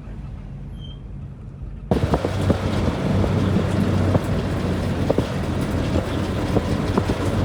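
Steady vehicle running noise: a low hum under an even rush, with scattered clicks and rattles. It starts abruptly about two seconds in, after a quieter low hum.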